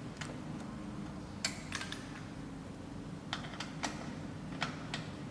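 Scattered sharp clicks and light metal taps from hands working a welding wire feeder, pressing its clamp down on the filler wire, over a steady low hum.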